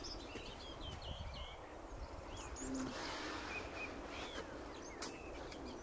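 Several birds chirping and calling in short notes that swoop up and down in pitch, over a faint low rumble of outdoor background noise.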